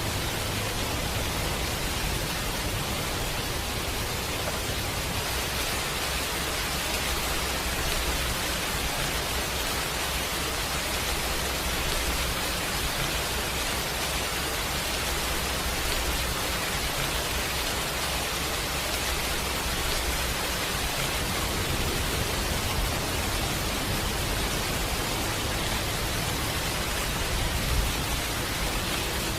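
Steady rain, an even hiss without a break, with a low rumble underneath.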